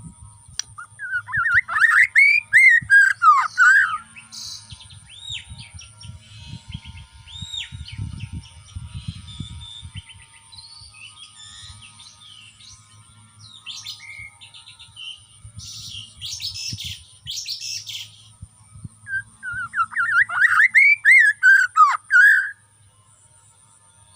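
Bornean white-rumped shama (murai batu) singing, song of the kind used to rile rival males. Two loud runs of rapid, fast-sliding phrases, one about a second in and one near the end, with softer varied whistles and notes between them.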